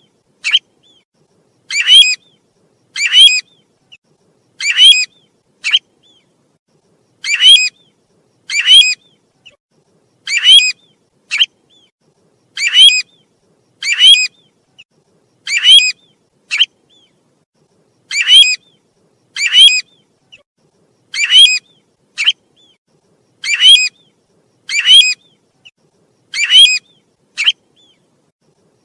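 Bird known in Vietnamese as the tu huýt calling over and over in a steady rhythm. Each call is a strong pitched phrase followed by a short extra note, repeating about every one and a half to two seconds.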